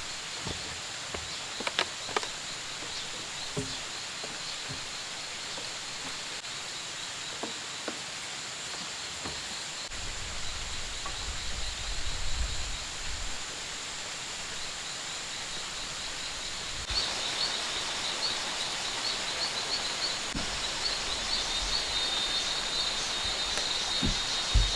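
Rainforest ambience of insects calling: a steady high buzz and a fast, pulsing chirp that grows louder about two-thirds of the way through. A few faint knocks and some low rumbles come and go.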